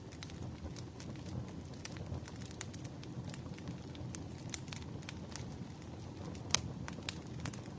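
Burning firewood crackling: a steady low rumble of flames with irregular sharp pops and snaps. One loud pop comes about two-thirds of the way through.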